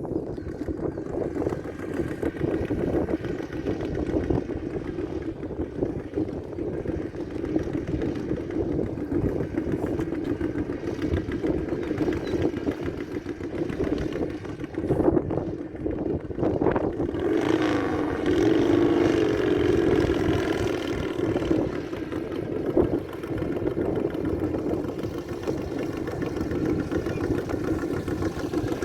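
Motorcycle engine running steadily at a low idle, with a swell in level for a few seconds about two-thirds of the way through.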